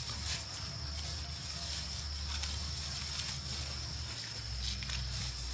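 A steady high-pitched insect trill, like field crickets, over low rumble and scattered brief rustles.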